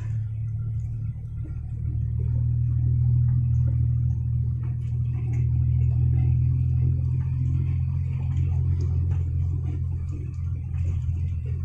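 Isuzu Deca dump truck's diesel engine running steadily under way, a low drone heard from inside the cab, with faint rattles over it.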